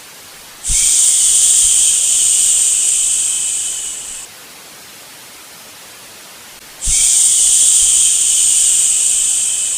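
Human "shhh" shushing, drawn out twice, each shush lasting about three and a half seconds and tapering off at its end. A steady soft hiss of white noise runs underneath.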